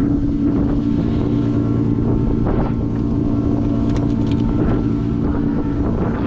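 Drift car's 1.5JZ inline-six engine running steadily at a constant engine speed, with no revving.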